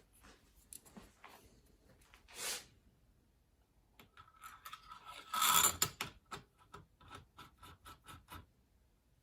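Small metal parts being handled: a short scrape, then a cluster of clicks and clinks with a faint metallic ring, followed by a run of light clicks about three a second.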